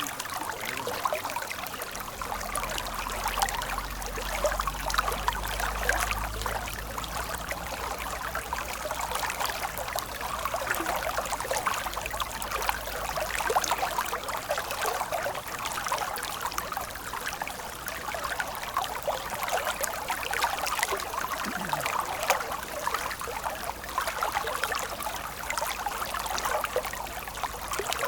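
A stream of water running steadily, with a constant patter of small splashes and trickles. A faint low rumble sits underneath from about two seconds in.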